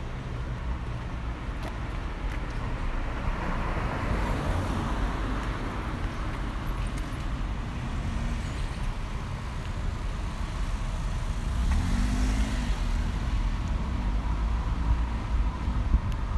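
Street traffic: a car passes about four seconds in and another around twelve seconds, over a steady low rumble.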